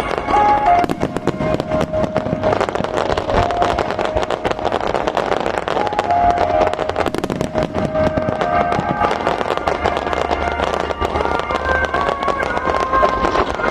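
Starmine fireworks display: a dense, continuous run of rapid bursts and crackling, with a melody playing along with held notes.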